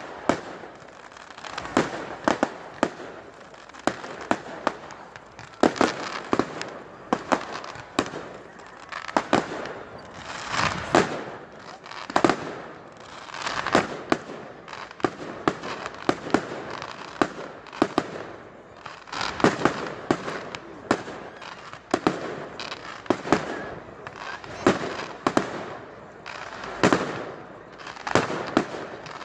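Fireworks going off in a rapid, irregular string of cracks and bangs over continuous crackling.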